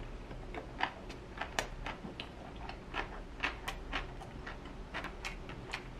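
Close-up mouth sounds of someone chewing a mouthful of gimbap: irregular wet clicks and smacks, a few a second.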